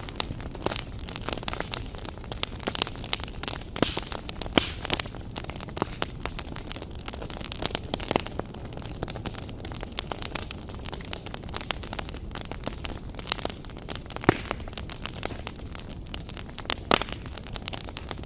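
Fire crackling in a fireplace: a dense run of irregular sharp crackles over a steady hiss, with several louder pops scattered through.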